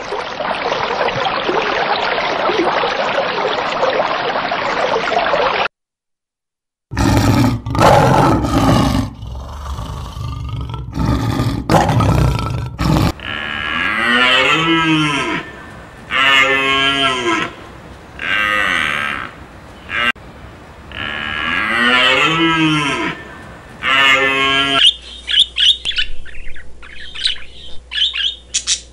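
A steady rushing noise for several seconds, then a run of loud rough bursts. Next come about five long animal calls, each about two seconds apart and rising then falling in pitch. Near the end come rapid squawks and chirps of a rainbow lorikeet.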